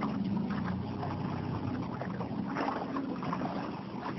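Small motorboat engine running steadily at low speed, with some water splashing against the hull.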